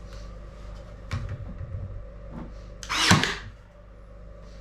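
Knocks and taps of wood and tools during ceiling-board work, with one louder clattering impact about three seconds in.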